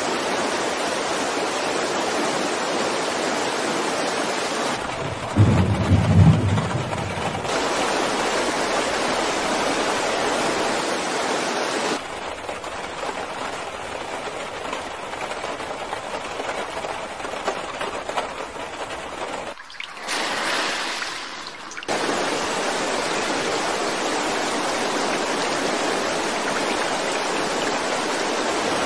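Heavy rain and rushing floodwater: a steady, loud hiss whose tone shifts at several abrupt cuts, with a brief loud low rumble about five seconds in.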